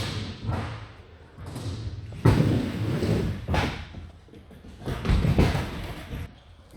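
Skateboard rolling on a hard surface, with several sharp clacks and thuds of the board hitting the ground: pops and landings. The loudest comes about two seconds in.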